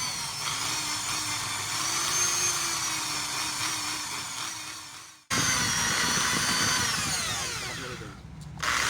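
Electric drill spinning an engine valve against its seat to lap it with coarse grinding compound. The drill runs with a steady whine and cuts out about five seconds in. It starts again, winds down with a falling whine, and starts once more near the end.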